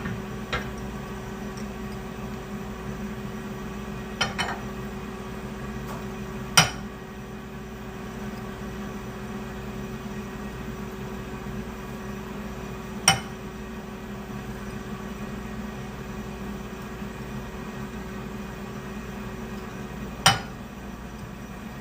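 A steady appliance hum with a few sharp clinks and knocks of kitchenware. The loudest knocks fall about a third of the way in, just past the middle, and near the end.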